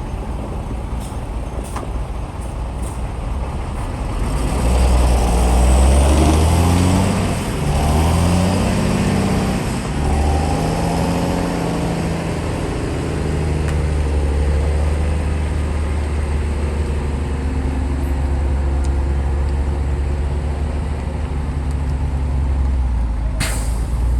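Shantui bulldozer's diesel engine working, revving up and down in changing pitch a few seconds in, then running at a steady pitch. A sharp clank comes near the end.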